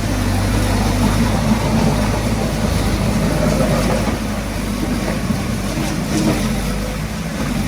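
Diesel engine of heavy earthmoving equipment running steadily with a low hum.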